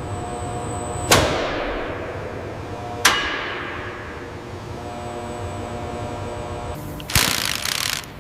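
Two loud metallic clangs about two seconds apart, each ringing out slowly, over a steady factory hum, followed near the end by a short hissing burst.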